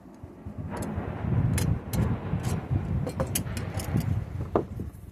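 Sharp metallic clicks of a screwdriver and bolts against a steel mower blade as the bolts are tightened, over a louder, uneven low rumble that sets in about a second in.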